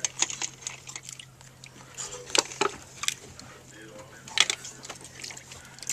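Mussel shells clicking and clattering in short, scattered knocks as someone pulls the mussels out and eats them quickly, with a low steady hum underneath.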